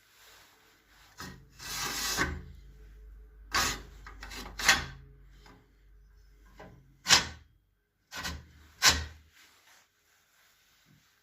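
A fireplace stove door being worked: a long scraping rub, then several sharp knocks and clacks a second or more apart.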